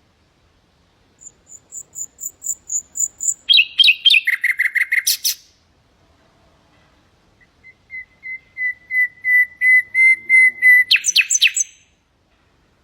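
Common nightingale singing two phrases. Each is a run of rapid repeated notes that grows louder; the second is a long series of one repeated whistled note swelling in volume and ending in a few harsh notes.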